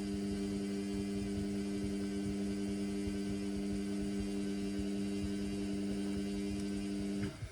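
Indesit washing machine giving a steady electrical hum while a suds-overloaded synthetics cycle runs. The hum cuts off suddenly near the end.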